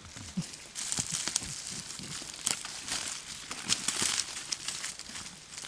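Dense rustling and crinkling crackle, many small clicks close together, heaviest from about a second in until near the end.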